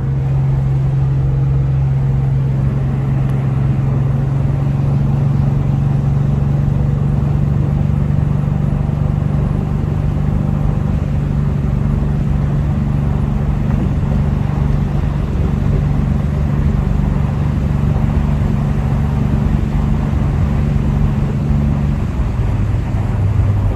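V8-swapped Chevy LUV pickup driving at a steady cruise, its engine drone and road noise heard from inside the cab. The engine note drops slightly near the end.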